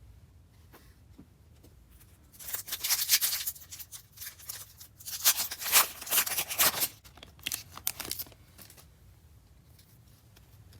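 Trading-card pack wrapper being torn open and crinkled, in bursts of sharp rustling and tearing: one about two seconds in, a longer one about five seconds in, and a short one near eight seconds.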